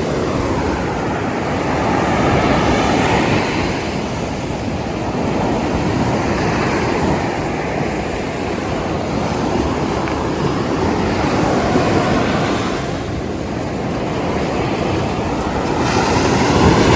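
Ocean surf washing onto a beach, rising and falling every four to five seconds, with wind rumbling on the microphone.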